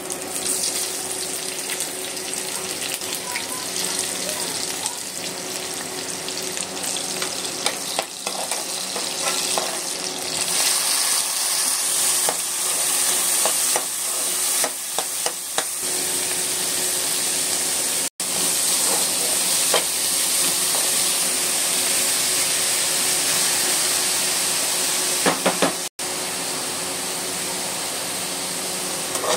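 Chopped vegetables sizzling in hot oil in a wok, stirred with a steel spoon that scrapes and clicks against the pan now and then. The steady frying hiss cuts out for an instant twice, in the second half.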